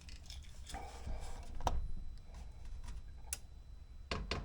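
A Chinese 12 V diesel heater's fuel pump priming: a couple of isolated clicks, then about four seconds in the pump starts ticking rapidly and evenly as it pushes diesel through on the heater's first use.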